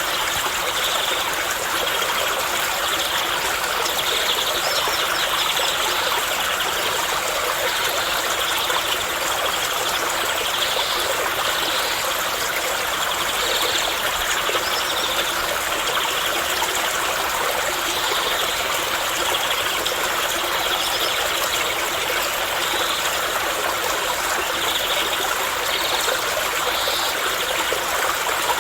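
Running water of a stream, flowing and trickling steadily, with small irregular splashes and gurgles.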